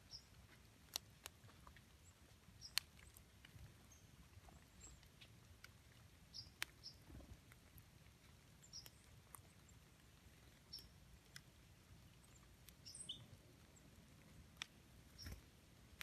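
Faint woodland ambience: scattered short, high bird chip calls and sharp little ticks, with the loudest tick about three seconds in.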